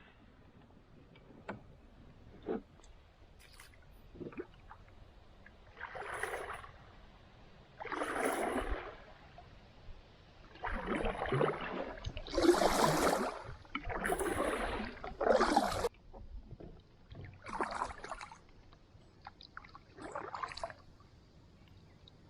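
Kayak paddle strokes in the water: a series of splashing swishes, one every one to three seconds, after a few faint light knocks.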